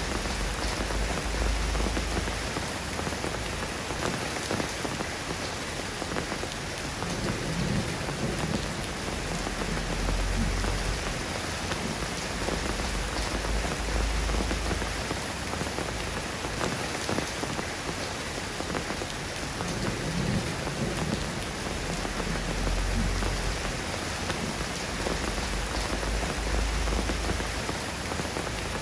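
Steady rain falling, an even hiss and patter. A low rumble swells and fades under it three times.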